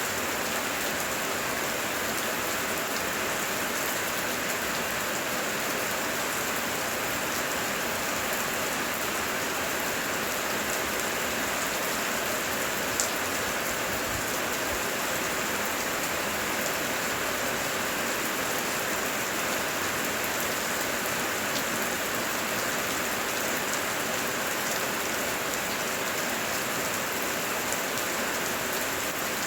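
Heavy rain falling steadily in a dense, even hiss, with one sharp drop click about halfway through.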